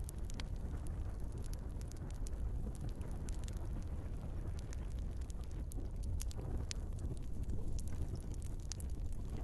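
Wood fire in a fireplace, burning logs crackling and popping irregularly over a steady low rumble of the flames.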